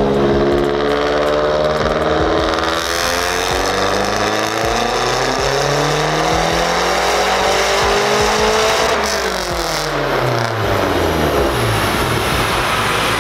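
Mazdaspeed3's turbocharged 2.3-litre four-cylinder engine making a full-throttle pull on a chassis dyno. The revs climb steadily for about nine seconds, then the throttle is lifted and the revs fall away.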